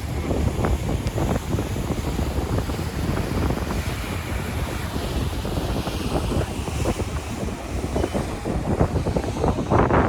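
Wind buffeting the microphone on a moving riverboat: a steady low rumble with gusty bumps. The rush of water and the boat running lie underneath.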